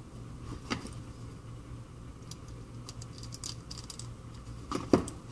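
Small clicks and taps of tools and phone parts being handled on a work surface during an iPhone repair: a sharp click under a second in, faint ticks in the middle, and a louder knock near the end, over a steady low hum.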